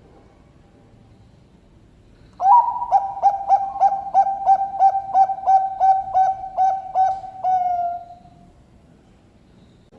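Bangkok-line perkutut (zebra dove) singing one phrase of its cooing song. It starts about two and a half seconds in with a run of about fifteen short coo notes at about four a second, then ends in one longer, slightly falling note.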